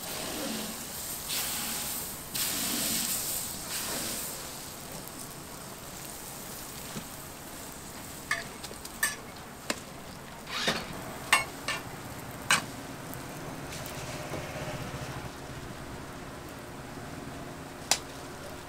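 Hotteok frying in oil on a flat metal griddle, sizzling steadily, louder for the first few seconds. Several sharp clicks come between about eight and thirteen seconds in, and one more near the end.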